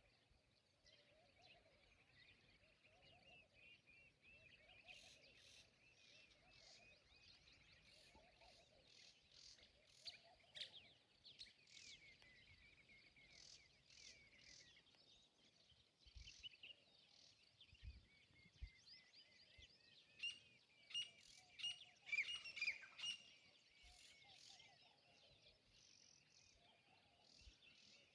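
Birds chirping and singing, faint, with many short trills and sharp calls; the calls grow busier and louder about two-thirds of the way through.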